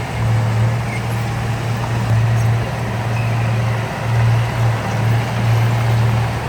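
Heavy diesel engine of earthmoving equipment, a bulldozer or dump truck, running steadily with a low, even hum that swells and eases slightly.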